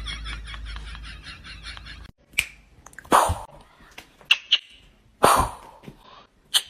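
A rhythmic sound fading out, then after a cut a dog making a series of short, sharp, noisy bursts, about five in four seconds, irregularly spaced.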